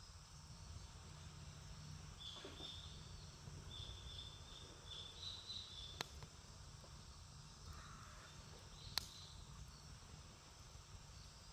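Faint outdoor campfire ambience: two sharp pops from burning wood about three seconds apart, and before them a bird calling a quick string of short high chirps.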